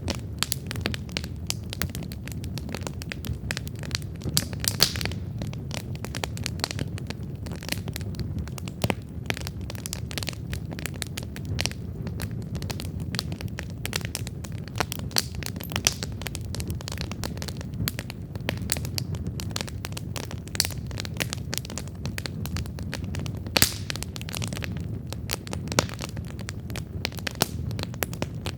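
Wood campfire burning: a steady low rumble of the flames under irregular sharp crackles and pops of the burning wood, a few of them louder than the rest.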